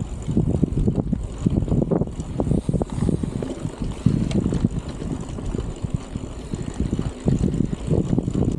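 Strong wind buffeting the microphone on a moving bicycle: an uneven low rumble that swells and drops with the gusts.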